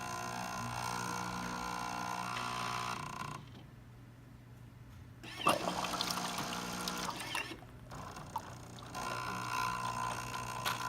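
Jura XJ9 super-automatic espresso machine running its pump and dispensing into the cup: a steady hum that drops away twice, with a sharp click about five and a half seconds in.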